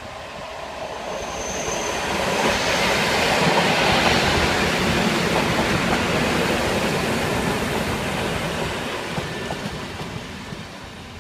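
Train going by on the rails: a broad rush of wheel and rail noise that swells to its loudest about four seconds in, then slowly fades away.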